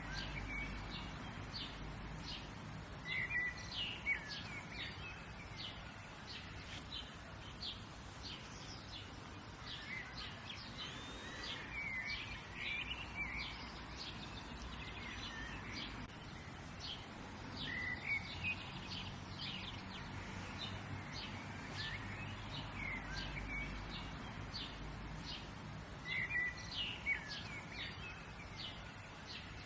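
Several songbirds chirping and calling, many short high notes in quick succession with a few longer whistled phrases, over a faint steady rumble of outdoor background noise.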